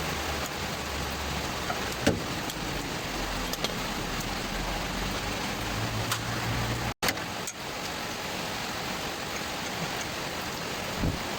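Steady hiss of rain, with a few sharp metallic clicks and knocks from a spanner tightening a bolt. The sound drops out for an instant about seven seconds in.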